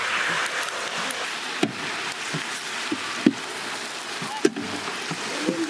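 Marinated chicken pieces sizzling in hot oil in a large steel tray, with a long spatula knocking and scraping against the metal a few times as they are stirred.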